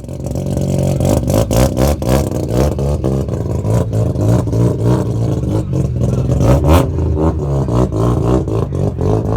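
Modified car engine revving hard, with sharp pops and bangs from the exhaust coming in quick clusters.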